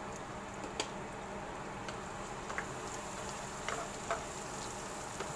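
Sambal of fried tempe with chicken liver and gizzard sizzling in a wok while a wooden spatula stirs it, with a few short clicks and scrapes of the spatula against the pan.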